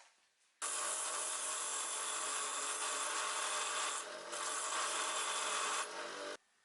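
A small electric power tool runs against wood, with a steady motor hum under a scraping hiss. It is switched on about half a second in and stops suddenly near the end, dipping briefly twice as the load changes.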